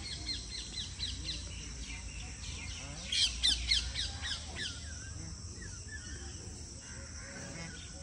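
Bird calling in a quick series of short, high, descending chirps, loudest about halfway through, then fading. Under it runs a steady high drone of insects.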